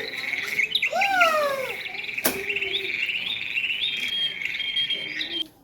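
A flock of small birds chirping busily and continuously, with a louder rising-then-falling call about a second in and a sharp click a little past two seconds. The sound cuts off abruptly near the end.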